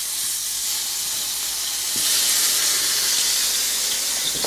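Tempeh slices coated in avocado oil sizzling in a hot ridged griddle pan, just turned over onto their second side. A steady high hiss that swells slightly about halfway through.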